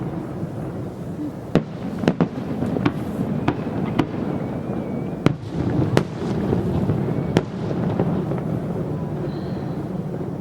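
Aerial fireworks display: a continuous rumble of distant bursts with a string of sharp, loud bangs at irregular intervals.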